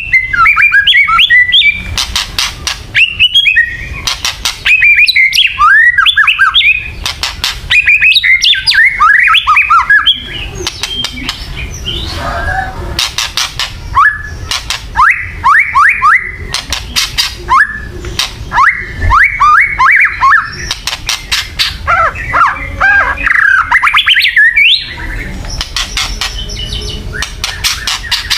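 White-rumped shama giving loud, harsh kretekan rattles, bursts of rapid clicking, alternating with quick whistled, downslurred phrases: the agitated calls used to provoke other shamas into fighting mood.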